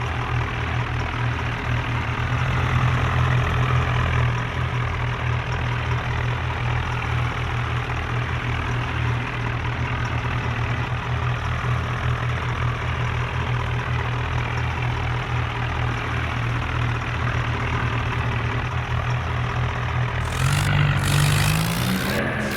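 Diesel tractor engine running steadily with a deep, even firing beat; about twenty seconds in its pitch starts to rise as it revs up.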